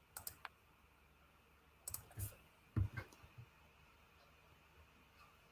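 Faint scattered clicking of a computer mouse and keyboard, in three short groups of a few clicks each.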